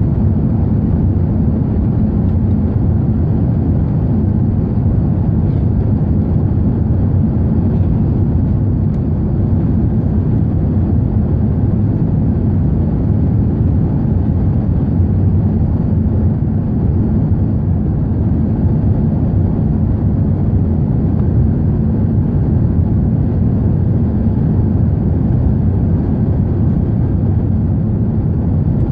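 Airbus A380 jet engines and airflow heard from inside the cabin: a steady low rumble that holds the same level and pitch throughout.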